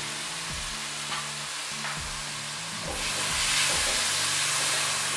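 Chicken pieces sizzling in hot oil in an aluminium karahi, just after vinegar and soy sauce have gone in. The sizzle gets louder about three seconds in as a silicone spatula stirs the pieces.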